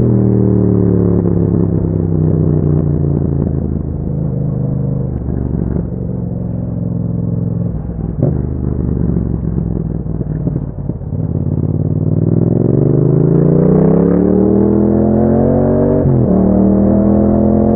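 Yamaha MT-07's parallel-twin engine through an Akrapovic exhaust while riding: the engine note falls as the bike slows over the first few seconds, runs low and uneven through the middle, then climbs steadily under acceleration and drops sharply at an upshift about sixteen seconds in.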